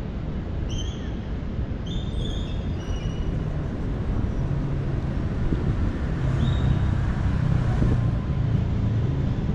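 City traffic rumbling, a heavy vehicle growing louder through the second half as it passes close, with a few short high chirps in the first few seconds.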